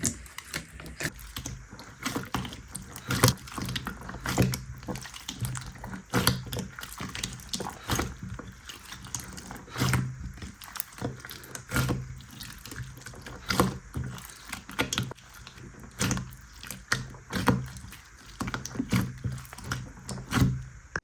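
Slime being squished and worked by hand, giving a dense, irregular run of clicks and pops.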